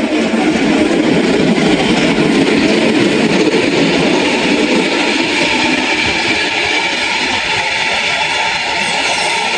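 A train passing close by: a loud, steady rumble and rail noise with several steady high-pitched tones over it.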